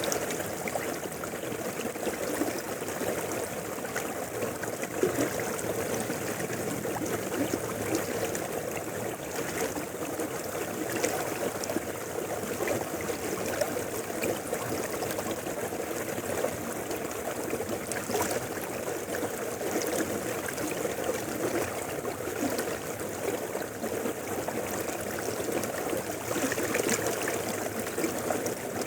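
A mountain river flowing steadily, a continuous rush and babble of water with small scattered splashes.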